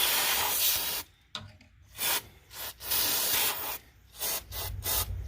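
Aerosol can of Radio Shack cleaner and lubricant spraying onto the record changer mechanism: a hiss of about a second, then several short bursts.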